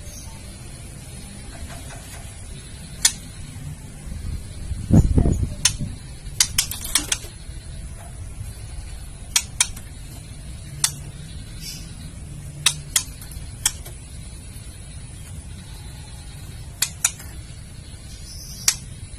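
Female white-rumped shama giving sharp clicking 'kretekan' calls, single clicks and quick pairs every second or two, with a short run of clicks a little after the middle. A low thump sounds about five seconds in.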